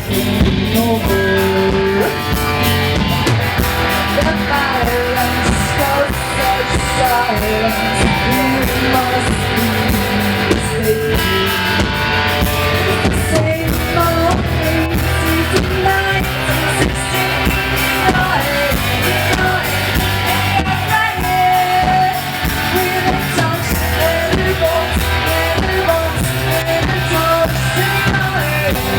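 Rock music with singing over guitar and drums.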